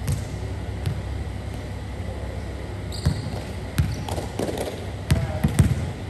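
A train carriage's steady low running rumble, with irregular sharp knocks and clicks, several of them bunched in the second half.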